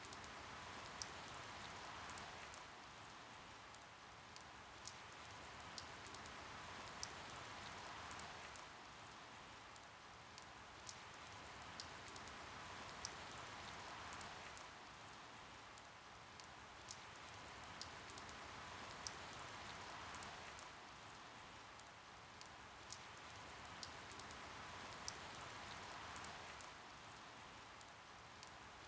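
Steady rain with single drops ticking sharply about every two seconds; the rain swells and eases every six seconds or so.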